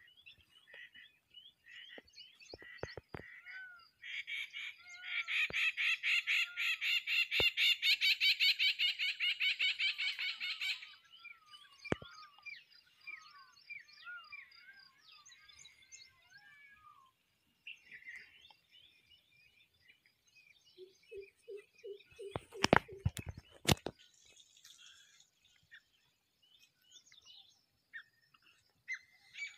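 Wild birds chirping and calling. About four seconds in, one bird gives a loud, rapid series of repeated calls that lasts about seven seconds. Later come a short run of low pulsed notes and a few sharp knocks.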